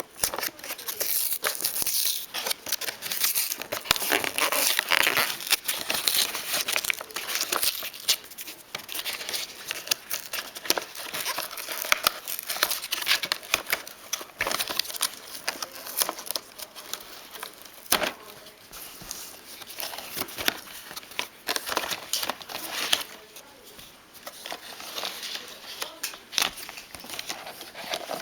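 Toy set packaging being handled and opened: irregular crinkling and tearing with many small clicks and snaps, pausing briefly now and then.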